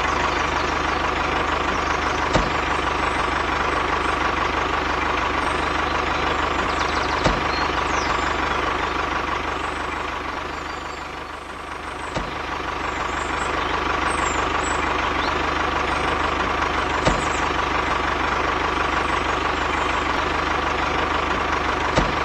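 Tractor engine running steadily, dipping briefly in level about halfway through, with a short sharp click about every five seconds.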